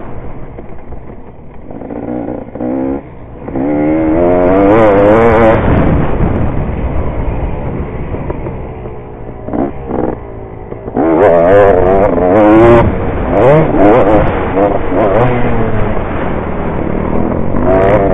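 Dirt bike engine revving up and down as the throttle is worked around a motocross track, easing off briefly about three seconds in and again around ten seconds, then revving hard again.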